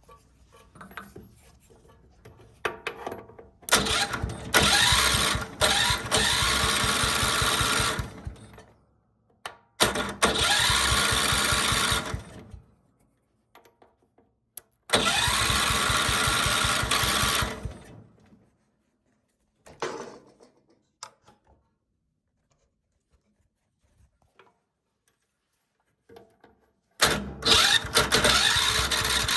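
John Deere 110 lawn tractor engine cranked by its starter, choke on, in four bursts of a few seconds each. It turns over in an even rhythm but does not run on after any of them. The starter is energised by shorting across the solenoid terminals with a screwdriver.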